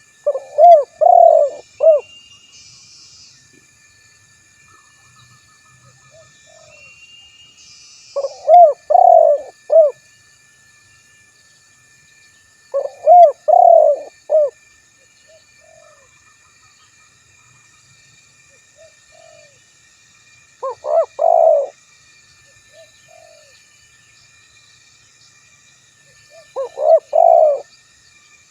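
Male spotted dove (tekukur) cooing: five calls of a few rolling coos each, several seconds apart. This is its territorial call to a rival.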